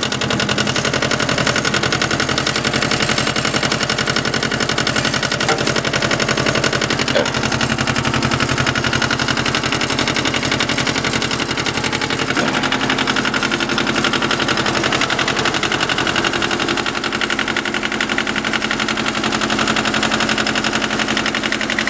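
The two-cylinder diesel engine of an 18-horsepower Yanmar tractor running steadily, with a fast, even chug of firing pulses.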